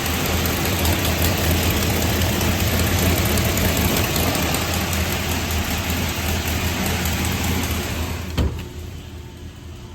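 Turbocharged 383 small-block Chevy V8 idling steadily on an engine dyno, with an exhaust leak at the dyno headers. About eight seconds in there is a sharp click, and the sound drops abruptly to a much quieter hum.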